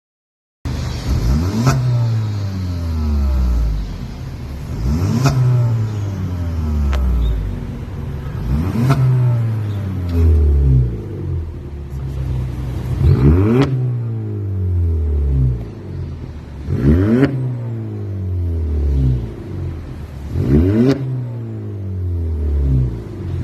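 Audi A3 8V 1.4 TFSI turbocharged four-cylinder revved through an aftermarket CGW valved mid/rear exhaust with a MACH5 downpipe. There are six sharp throttle blips about every four seconds, each rising quickly and then falling back slowly.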